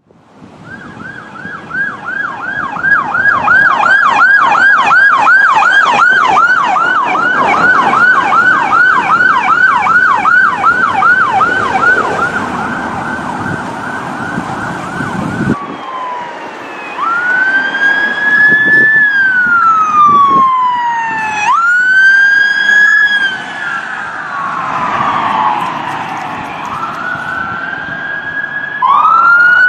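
Electronic police siren, fading in over the first few seconds, in a fast yelp of about two to three quick pitch sweeps a second. About fifteen seconds in it changes to a slow wail that rises and falls every few seconds.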